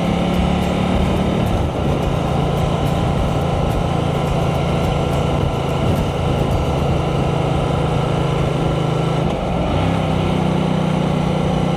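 Ducati Multistrada 1200S V-twin engine and exhaust running under way on the road, with wind noise over it. The engine note drops about two seconds in and climbs again near the end.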